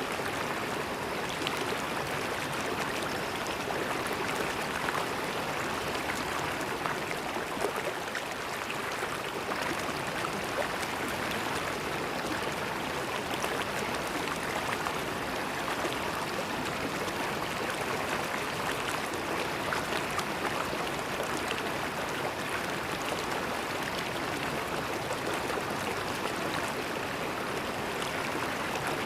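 River water flowing steadily, a continuous rushing and gurgling with small splashes throughout.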